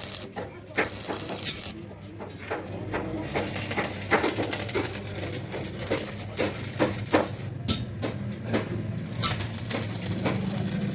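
Workshop work on a truck body: irregular sharp knocks and clinks, a few a second, over a steady low hum.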